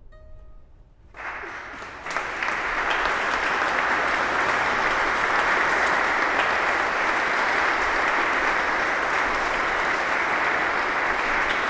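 Audience applauding: the last notes die away, then clapping starts about a second in, swells within another second and holds steady.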